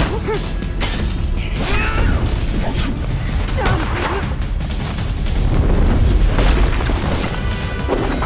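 Film action soundtrack: tense score over deep booms and scattered sharp impact hits, with a few short gliding cries.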